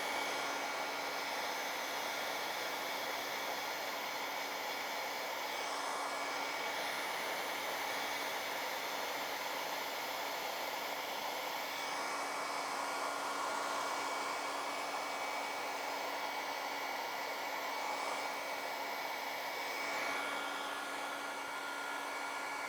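Hair dryer running steadily, blowing poured acrylic paint across a canvas to open up the colours. It has a steady hum under the airflow and shifts slightly every few seconds as it is moved.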